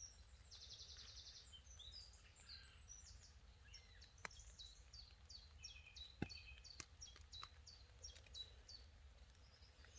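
Faint woodland birdsong: many short falling chirps, with a brief buzzy trill just after the start. A few sharp, scattered taps of raindrops on the tent fabric sound through it.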